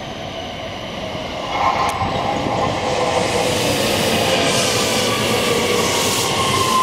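JR West 321 series electric train pulling into the platform: wheels running on the rails, growing louder about a second and a half in as the cars come alongside, with a high whine that slides slightly lower as the train slows to stop.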